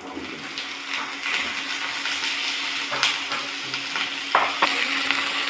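Cubed squash sizzling in hot oil as it is tipped into a frying pan with spring onion, the sizzle building in the first second and staying up. It is stirred with a spatula, which gives a few sharp clicks against the pan later on.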